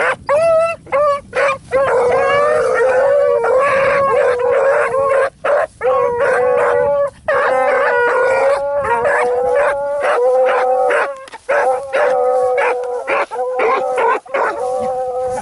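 A pack of hounds baying together on a run, several dogs' voices overlapping at different pitches. A few short separate bays come first, then about two seconds in they merge into a near-continuous howling chorus.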